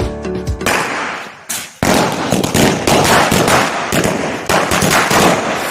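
Firecrackers going off in a dense run of rapid crackling pops, starting just under a second in and getting louder at about two seconds.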